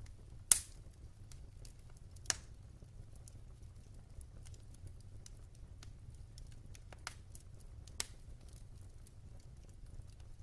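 Wood fire burning in a fireplace, crackling with scattered sharp pops, the loudest about half a second in and another about two seconds later, over a low steady rumble of the flames.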